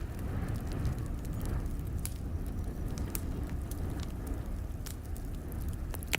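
Wood fire crackling in a fireplace: scattered sharp pops and snaps over a steady low rumble, with one louder pop near the end.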